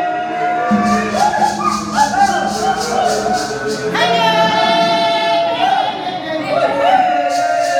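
Voices singing a slow gospel song with long held notes, while a tambourine shakes in a steady rhythm that stops midway and comes back near the end.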